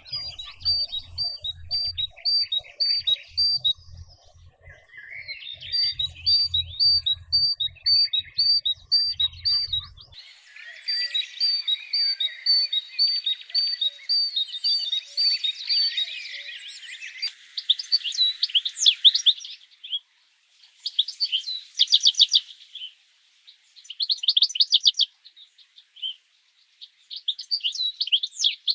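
Songbirds singing: a series of repeated high notes, about two to three a second, then bursts of fast trilled chirps with short gaps between them. A low pulsing rumble runs under the song and stops abruptly about ten seconds in.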